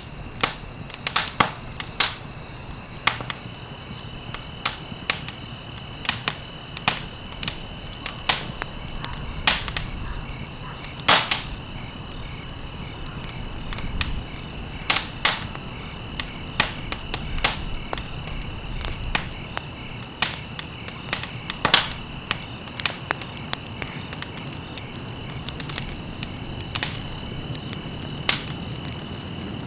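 Wood fire crackling, with irregular sharp pops several times a second and a few louder snaps, over a steady high-pitched tone.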